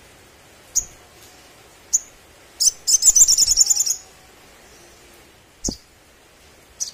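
Sogon sunbird calling: short, sharp, high chips spaced a second or so apart, with a loud, rapid trill about three seconds in.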